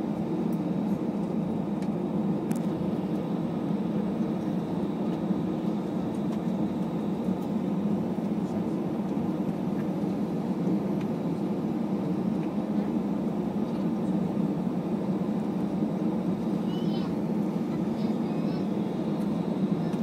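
Airbus A321 engine and airflow noise heard from inside the passenger cabin: a steady low drone that neither rises nor falls. A few faint short high-pitched chirps come through near the end.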